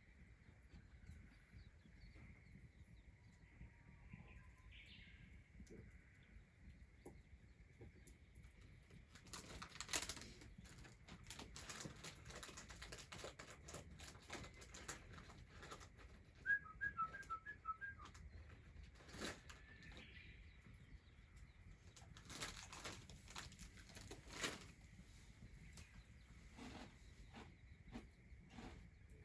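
Faint scattered clicks and knocks, thickest in the middle stretch. About halfway through, a short run of high, quick chirps.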